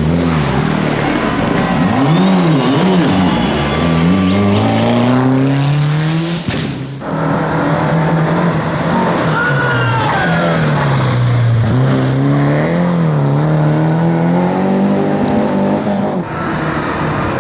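Historic rally cars driven hard: engines revving up and dropping back through gear changes and lifts, the pitch rising and falling repeatedly. The sound breaks off abruptly twice, about six and a half and sixteen seconds in, as one car gives way to another.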